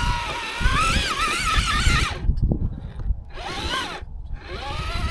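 Electric motor and gear whine of an RC rock crawler driving over rough ground, the pitch rising and falling with the throttle and cutting out a few times in the second half.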